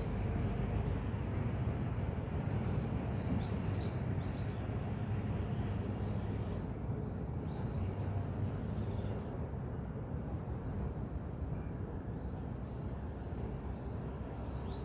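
Crickets chirping in a steady chorus, a high continuous trill with rapid pulsed chirps, over a low background rumble.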